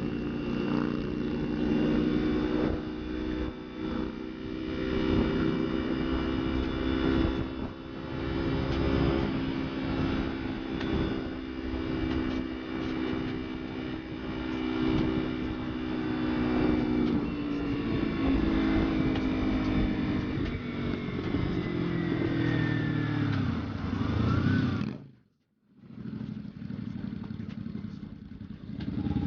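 Motorcycle engine running at a steady pitch, then dropping in pitch from about two-thirds of the way in as the bike slows. It cuts off abruptly near the end and comes back lower and steadier.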